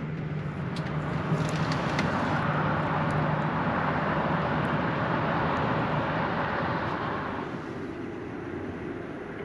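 Road traffic: a vehicle goes by, its noise swelling and then fading after about seven seconds, over a steady low hum.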